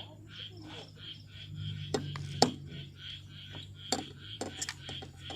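Metal utensils clinking against a cooking pot or bowl: a few sharp clinks, the loudest about halfway through. Behind them, insects chirp in a steady high pulse about four times a second.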